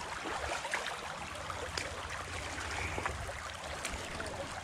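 Steady rush of running creek water, with a low rumble underneath and a few faint clicks.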